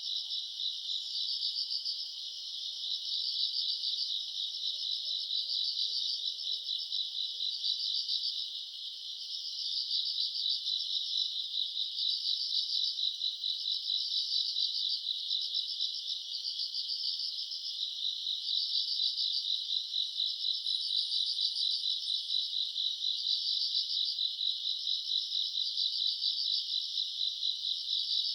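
Night chorus of crickets and other grass insects: a dense, high, steady trilling that swells in pulses about once a second.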